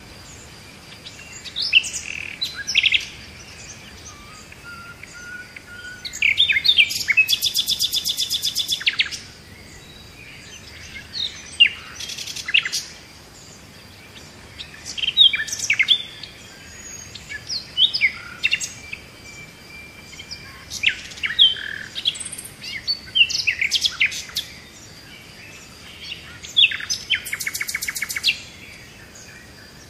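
Birds chirping and calling: short, sharp, falling notes in phrases every second or two, with a fast rattling trill about seven seconds in and again near the end.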